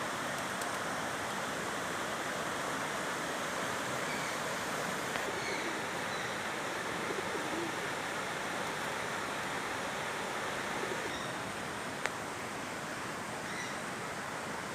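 Steady rush of flowing stream water, with a single sharp click about twelve seconds in.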